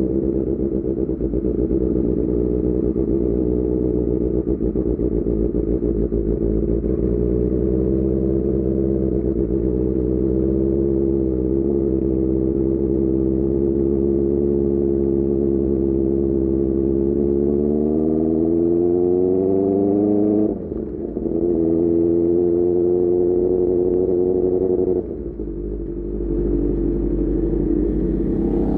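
Motorcycle engine running through an AR GP1R aftermarket exhaust while riding: steady cruising, then a rising pull under throttle about two-thirds of the way in, cut by a quick gear change. A few seconds later the throttle closes with a sudden drop in sound, and the engine picks up again near the end.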